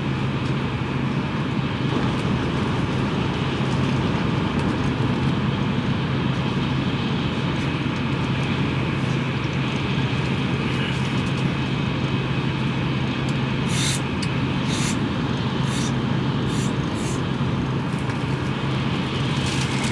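Cabin running noise of a Tokaido Shinkansen train at speed: a steady rumbling rush with a constant low hum, and a few brief high hisses or ticks about fourteen to seventeen seconds in.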